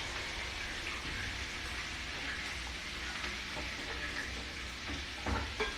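Capers frying in a pan of hot oil, a steady sizzle.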